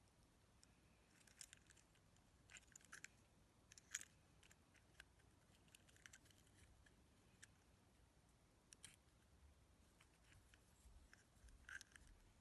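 Near silence with faint scattered clicks and taps, the loudest about four seconds in and a small cluster near the end: the small plastic parts of a car remote key fob being handled during a repair.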